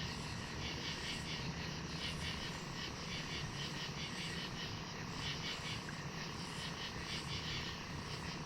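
Crickets chirping steadily in quick pulses over a constant low rumble.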